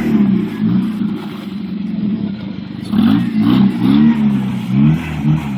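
Jeep Wrangler TJ's engine under repeated short throttle blips, its pitch rising and falling several times in quick succession about halfway through, as it crawls up the obstacle.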